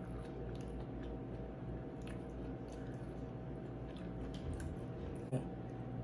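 Close-miked chewing of seafood boil food: wet, squishy mouth sounds with scattered small clicks and one sharper click about five seconds in, over a steady low hum.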